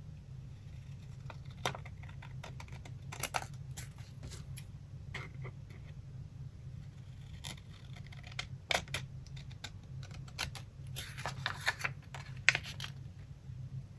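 Paper collage materials being handled: scattered light taps and paper rustles, with a denser crackling run of paper handling near the end, over a low steady hum.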